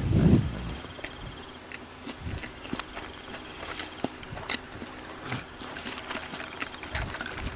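A person chewing fried fast food close to the microphone: irregular wet mouth clicks and crunching, with a louder low, muffled burst right at the start.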